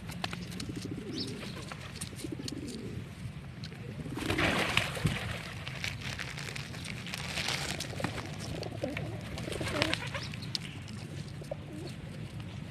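Pigeons cooing, low repeated calls, with louder bursts of rustling noise about four seconds in and again near the ten-second mark.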